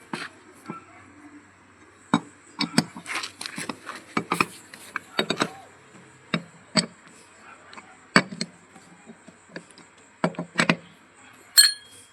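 Irregular knocks and clanks of hand tools on metal, about a dozen strikes at uneven spacing, with a ringing metallic clink near the end.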